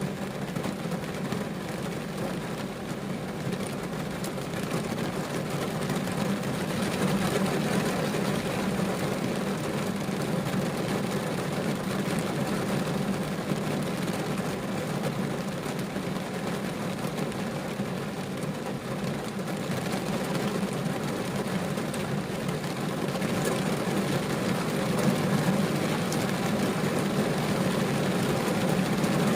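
Rain falling on a car's roof and windows, heard from inside the cabin as a steady, dense patter that slowly gets a little louder.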